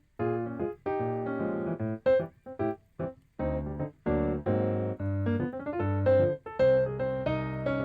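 Background piano music, a mix of short, detached notes and held chords.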